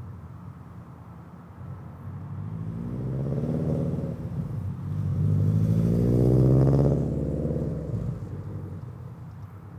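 2022 Subaru BRZ's 2.4-litre flat-four, running a catless front pipe, unequal-length headers and a Greddy RS exhaust, driving past. The engine note builds over a few seconds, dips briefly, rises again to its loudest about two-thirds of the way in, then fades away as the car moves off.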